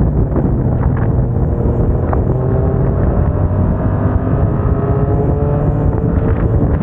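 Yamaha MT-07's parallel-twin engine through an aftermarket MIVV exhaust, running under way with wind on the microphone. The engine pitch climbs slowly through the middle as the revs build in gear.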